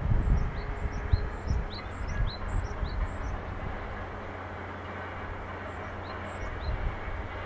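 A small bird chirping repeatedly: short, high calls about two a second for the first three seconds, and a few more near the end. Under it runs a steady low rumble that swells now and then.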